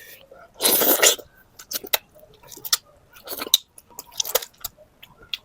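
Close-miked eating of chicken tinola: chewing, with several short noisy bursts and many sharp clicks.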